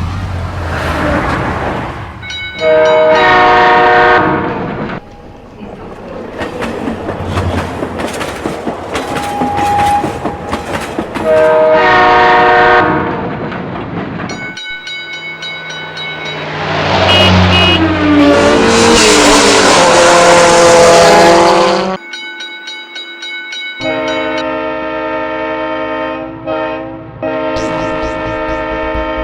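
Train sound effects: a train horn sounding in four long blasts over the rumble and clatter of a moving train.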